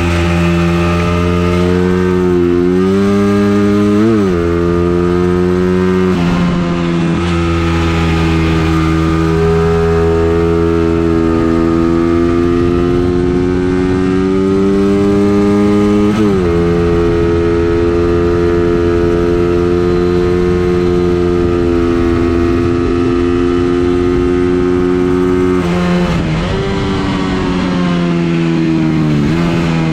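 Vehicle engine being driven hard around a circuit. Its pitch rises under acceleration and drops sharply around 4 and 6 seconds in, climbs slowly until about 16 seconds, then drops again. It holds steady, dips around 26 seconds, rises and drops once more near the end, like gear shifts or lifting off for corners.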